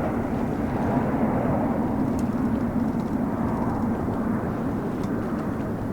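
Jet airliner on approach to land, its engines a steady rushing noise with a low hum that slowly fades as it moves away.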